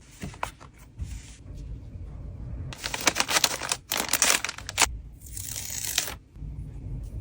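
Trading cards and plastic packaging being handled and packed: rustling and crinkling of plastic, loudest in a stretch of dense crackling from about three to five seconds in. A low wind rumble on the microphone runs underneath.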